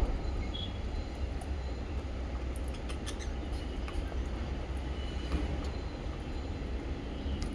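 A steady low rumble, with a few faint, short chirps from small pet parrots over it.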